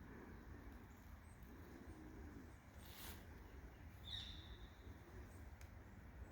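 Near-silent woods with a faint scuff about three seconds in and one short, high bird chirp about four seconds in.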